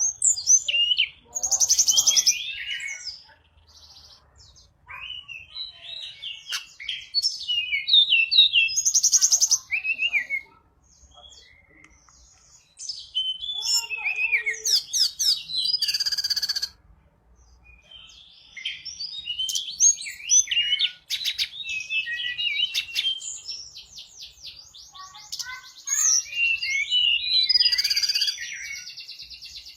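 Tledekan gunung songbird singing energetically (gacor) in bursts of quick, high chirping and warbling phrases, some running into fast rattling trills, with short pauses between phrases.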